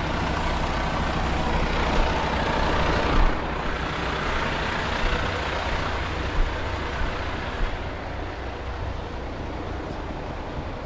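Truck engine running steadily with a low hum, under a hiss that eases off after about three seconds, and a few light knocks.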